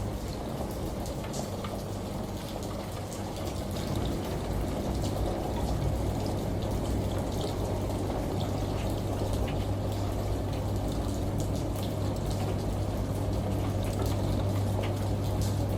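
Steady ambient water-sound mix: a washing machine's low hum under running, splashing water like a shower, with scattered drips like rain. The level stays even throughout.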